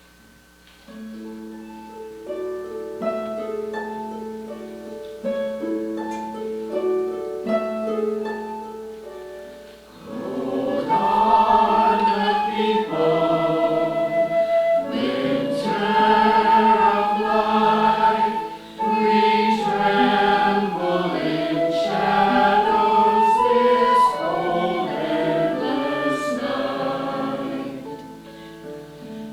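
A short instrumental introduction of held, plucked-sounding notes, then a choir singing with accompaniment from about ten seconds in.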